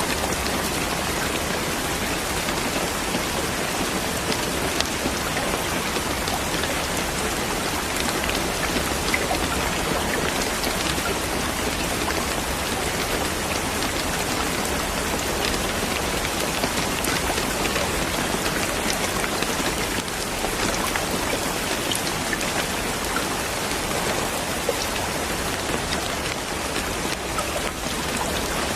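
Steady rain falling on a surface, a dense even patter with many individual drops ticking through it.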